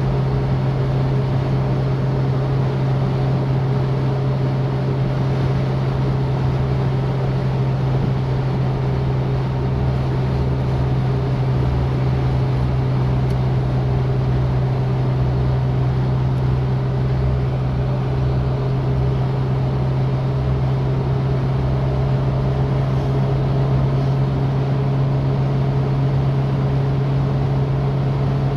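Citroën DS's four-cylinder engine running at a steady cruise, a constant low drone over road noise, with uneven low buffeting coming and going through the middle.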